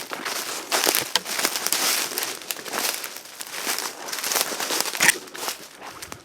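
Dry brush, twigs and leaves crackling and crunching underfoot while walking through undergrowth, with sharp snaps here and there, one loud snap about five seconds in.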